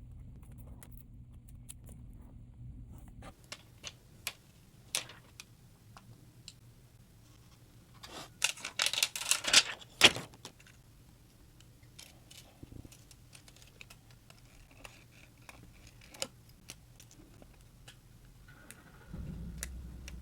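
Small tools and phone parts clicking and rattling during a smartphone teardown: scattered single clicks, with a burst of rapid clicking and rattling about eight seconds in that ends in one sharp click.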